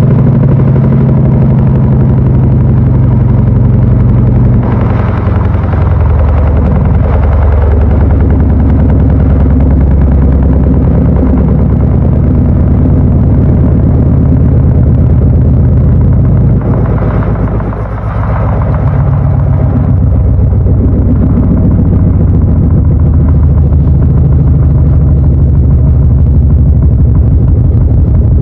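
Panasonic NA-FA80H8 top-loading washing machine running, its motor giving a loud, steady low hum. The hum changes pitch about five seconds in and again with a brief dip in level around seventeen seconds in.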